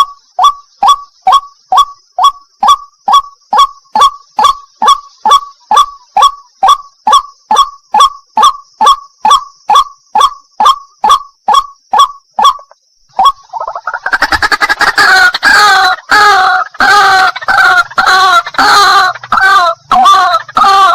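White-breasted waterhen calls: a steady series of short, sharp "wak" notes at about three a second. About thirteen seconds in, this gives way to a loud, dense chorus of gurgling, warbling calls.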